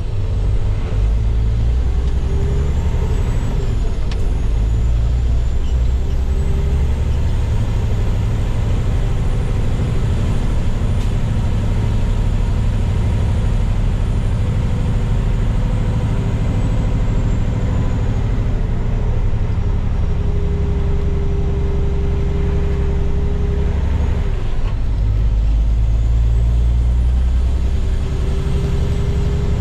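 Heavy diesel dump truck engine running steadily under way, its note shifting a couple of times in the second half of the stretch.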